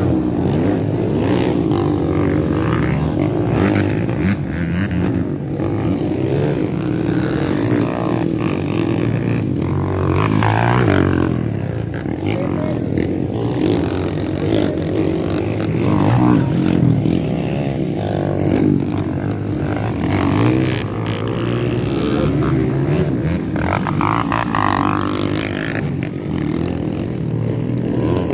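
Motocross dirt bike engines running and revving, rising and falling in pitch.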